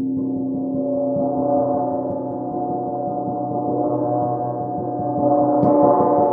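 Titanium gong being played in a sustained, shimmering wash of many overlapping ringing tones that swells and grows louder about five seconds in.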